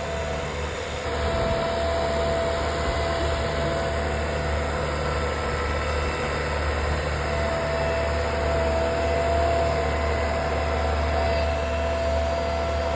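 SwarmFarm robotic tractor's engine running steadily, a deep hum with a steady whine over it, growing a little louder about a second in.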